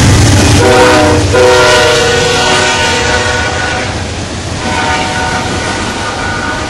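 Diesel locomotive horn sounding a multi-note chord, a short blast then a longer one, over the rumble and wheel noise of the moving train.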